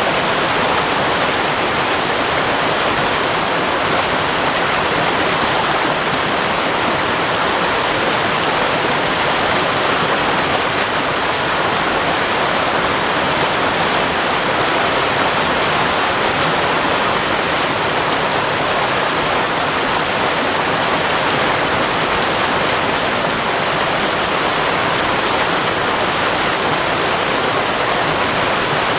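Waterfall running full after rain: a steady rush of falling water splashing onto rock.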